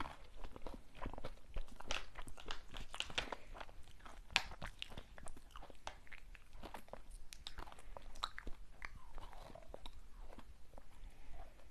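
Close-miked eating of sweet snacks: a run of crisp bites and crunches, densest in the first half, easing into softer, sparser chewing near the end.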